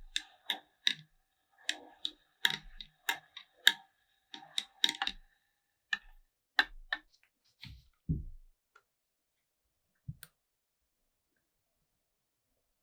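Small hard parts clicking and tapping against each other in a quick, irregular run of sharp clicks, then a dull thump and one last click.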